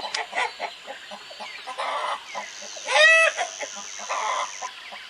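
Chicken clucking: a run of short clucks, with one louder, drawn-out call about three seconds in.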